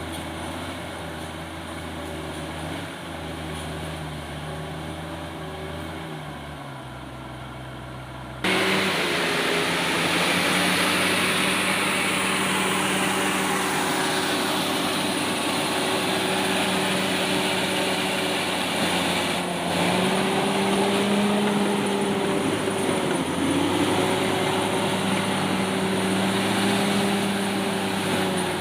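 Diesel engine of a Komatsu D68ESS crawler bulldozer running steadily. About 8 seconds in it becomes suddenly louder and brighter. Near the middle the engine pitch sags briefly, then recovers, as the engine takes load.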